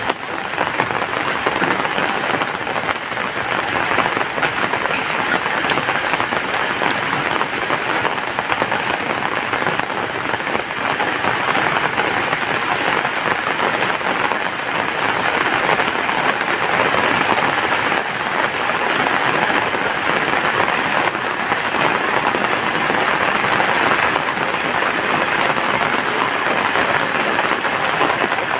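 Steady rain falling, a dense, even downpour with no let-up.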